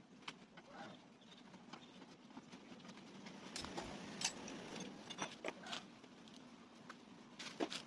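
Scattered clicks and knocks from hand tools and exhaust parts being handled while the stock exhaust is taken off, over a faint steady hum.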